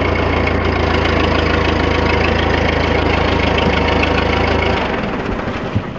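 1948 Ford 8N tractor's four-cylinder flathead engine running steadily at idle. About five seconds in, the sound drops and the steady low hum breaks up unevenly.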